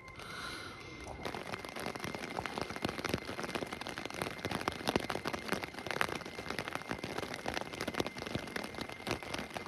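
Steady rain, many separate drops pattering, setting in about a second in.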